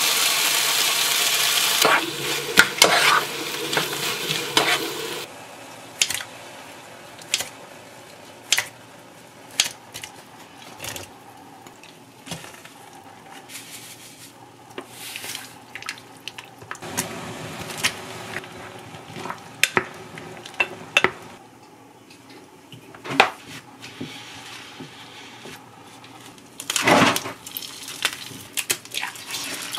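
Fried rice sizzling in a pan as a wooden spoon stirs it, loud for the first five seconds or so. Then a quieter stretch of separate clinks and taps of utensils against cookware. Near the end comes a short burst of sizzling as an egg goes into a hot frying pan.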